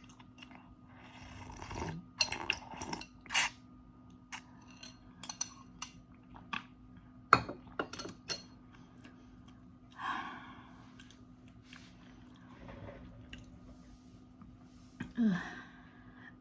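Eating instant noodles: utensils clicking, clinking and scraping against a bowl at irregular moments, with a few longer noisy stretches of eating sounds between them.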